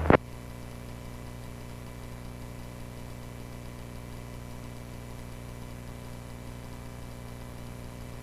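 Steady low drone of the Cessna 140A's engine in flight, heard through the cockpit audio feed between radio calls.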